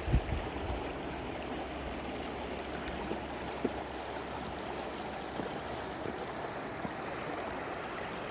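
The Smith River flowing over rocks: a steady, even rush of running water. A couple of brief thumps stand out right at the start.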